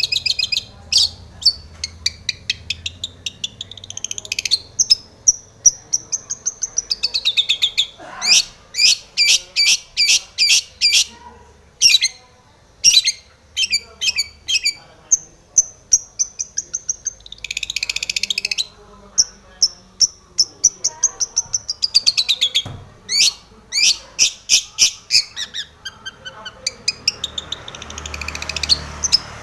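Long-tailed shrike singing a varied, mimicking song: quick runs of sharp repeated notes, sliding high whistles and short harsh chattering phrases, broken by brief pauses.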